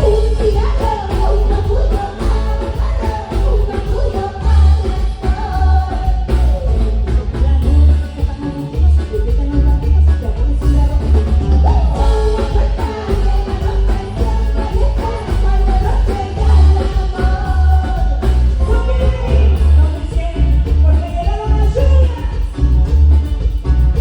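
Live band music with singing over a very heavy, pounding bass.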